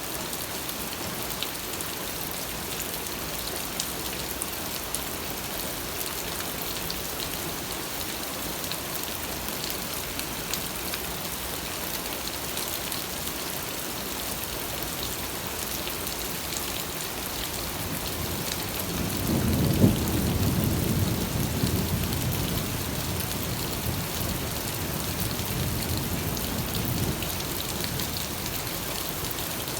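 Steady rain hissing with scattered drop patter. About two-thirds of the way through, a low roll of thunder swells suddenly, then fades over several seconds.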